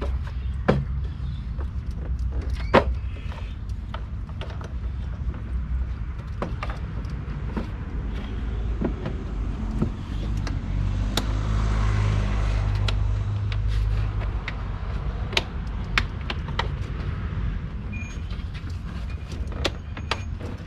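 BMW 330Ci inline-six engine idling steadily while it draws in fresh coolant during the refill and bleed after a water pump replacement. Scattered sharp clicks of plastic parts being handled sound over it, and the hum grows a little stronger for a few seconds midway.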